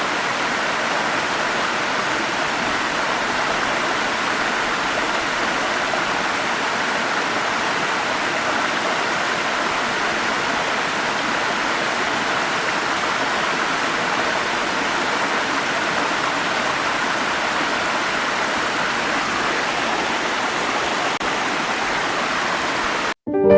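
Waterfall rushing, a steady even roar of falling water that cuts off abruptly near the end.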